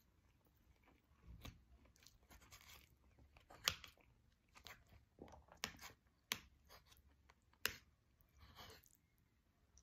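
Faint eating sounds: a person chewing a bite of omelette, with scattered sharp clicks and taps, the two loudest about a third of the way in and near the end.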